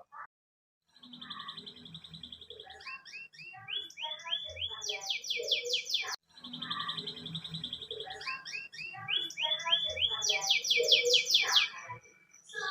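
Domestic canary singing: a steady trill, then rising and falling notes, then very fast sweeping notes that drop from high to lower pitch. The same run of phrases is heard twice, with an abrupt cut between them about six seconds in.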